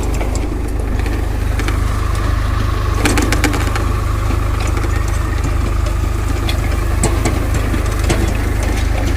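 Swaraj tractor's diesel engine running steadily under load while pulling a seed drill, with a faint steady whine joining about two seconds in and a few sharp clicks, a cluster of them about three seconds in.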